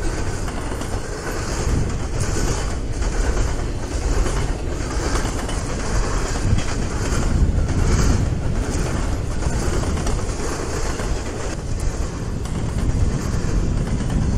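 CSX intermodal freight train rolling past close by: a steady low rumble of the cars with repeated clacking of wheels over the rail joints.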